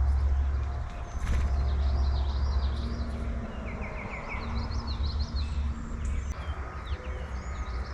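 Songbirds chirping and calling around a backyard feeder in short high notes, with a quick run of rapid notes about three seconds in, over a steady low rumble.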